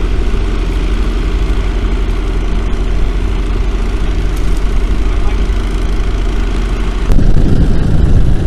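Engine running steadily at idle with a low hum, from the machinery working the water-filled cofferdam. About seven seconds in it suddenly gets louder and rougher.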